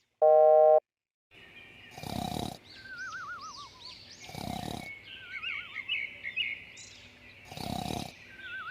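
Cartoon sound effects: a short electronic beep, then high bird-like chirps and three wavering, falling whistles, punctuated by three loud noisy bursts about two and a half seconds apart.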